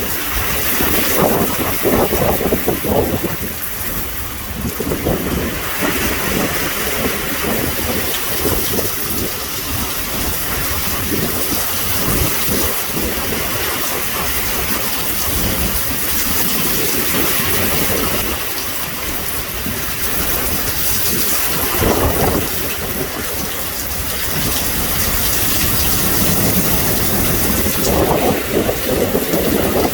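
Extremely heavy rain pouring down in a severe thunderstorm, with strong wind: a loud, steady rush that swells in surges now and then.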